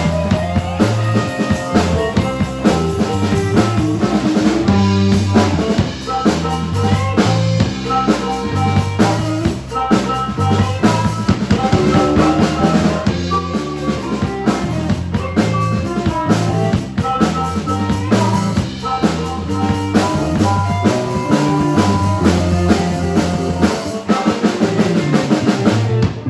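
Live band playing, a drum kit's bass drum and snare keeping a steady beat under a moving bass line and other instruments.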